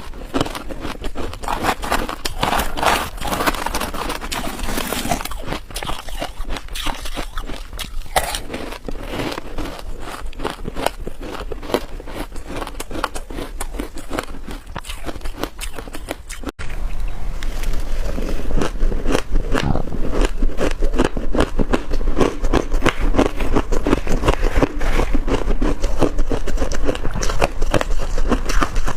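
Freezer frost and ice crunching and crackling in dense, rapid crunches and scrapes, close to the microphone. An abrupt break comes a little over halfway through, and after it the crunching is louder.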